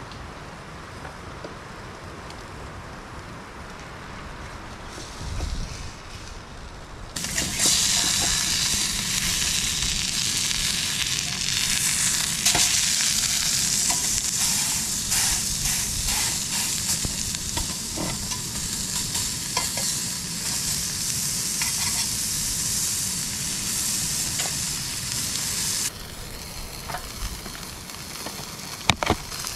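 Beef patty sizzling in a stainless steel frying pan over high heat. Occasional clinks from a fork work the pan. The sizzle starts suddenly about seven seconds in and cuts off a few seconds before the end.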